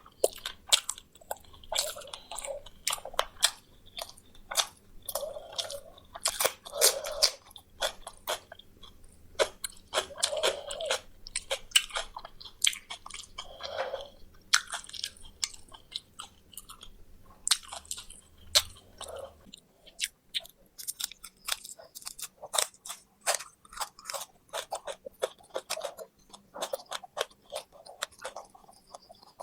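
Close-miked chewing and crunching of crispy fried poultry: irregular sharp crackles and clicks of the fried coating and bones being bitten, with wetter chewing sounds every few seconds.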